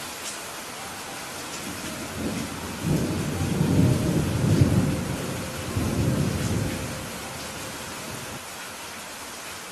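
Steady rain hissing, with a long rolling thunder rumble that builds about two seconds in, swells in waves through the middle and fades away by about seven seconds.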